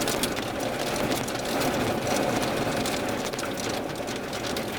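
Steady engine and running noise of a car, heard from inside the cabin, with a few faint scattered ticks.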